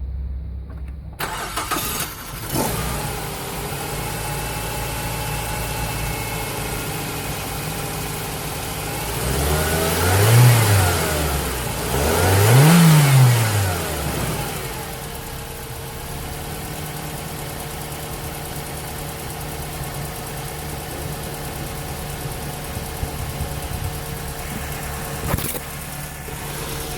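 2005 Mazda 3 engine idling steadily, revved twice in quick succession near the middle, each rev rising in pitch and falling back to idle.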